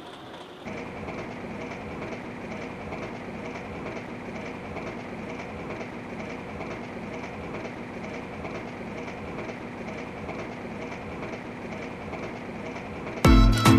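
Train running steadily along the track, its wheels clicking over the rail joints. Near the end, loud music cuts in over it.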